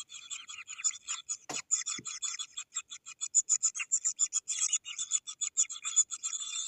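Kingfisher nestlings calling for food in a fast, continuous raspy chatter of many short notes: several hungry chicks clamouring together. A sharp knock comes about one and a half seconds in, with a fainter one just after.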